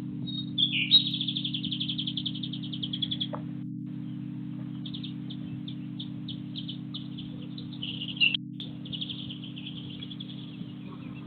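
A small songbird singing two long, rapid trills of high notes. The first starts about half a second in; the second follows after a short pause and runs until near the end. A steady low hum sits underneath.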